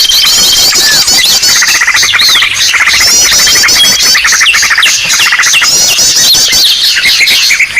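Loud, dense chorus of many small birds calling at once: overlapping chirps, rapid runs of repeated down-slurred notes and trills. A bird-lure (pikat) recording of noisy birds, played to draw other birds in.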